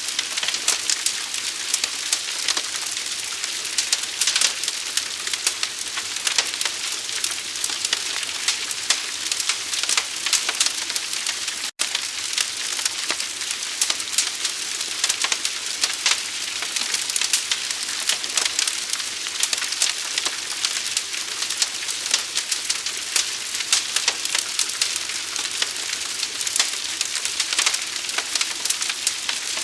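Fire burning, a dense, continuous crackle of small pops over a steady hiss, broken by a momentary dropout about twelve seconds in.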